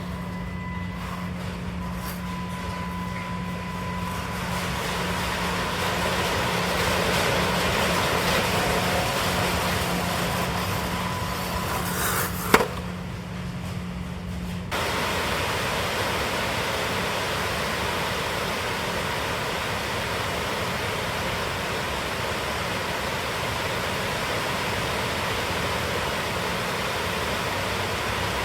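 Mini RC crawler's small electric motor and gears running with a steady hum, with one sharp click about twelve seconds in. About fifteen seconds in the hum stops abruptly and an even hiss takes over.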